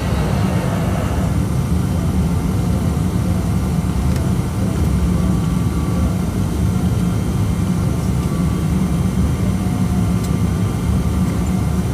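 Steady low rumble inside a Boeing 777-200 airliner cabin before departure, with a few faint steady tones above it.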